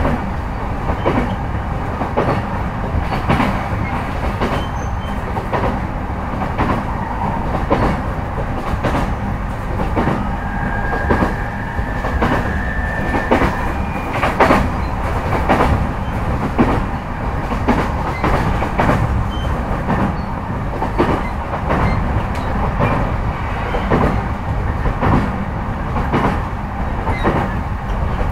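Interior running sound of a JR East E233-5000 series electric commuter train, heard inside motor car MoHa E232-5603: a steady rumble of wheels on rail, with sharp clacks over rail joints coming about once a second. A faint thin tone sounds for a few seconds about halfway through.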